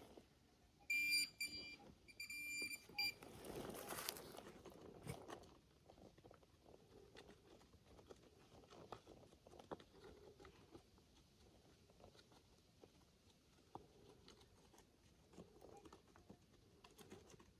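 Handheld metal-detecting pinpointer sounding off on a target: two short bursts of fast, high beeping about a second apart. These are followed by a couple of seconds of scraping and faint clicks.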